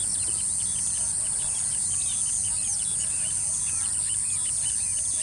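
A steady high-pitched insect drone, like crickets, with many short, quick bird chirps scattered over it.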